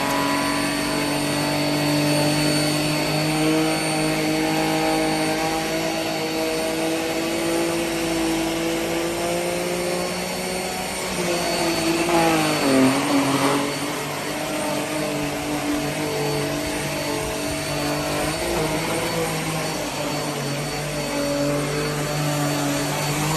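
JIMMY BX7 Pro dust mite vacuum cleaner running steadily, a motor hum with a thin high whine above it. The pitch dips about halfway through and then recovers.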